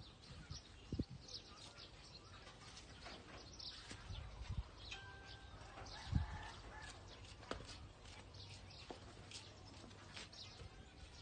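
Birds chirping with short high calls scattered throughout, and a few soft low thumps about one, four and six seconds in.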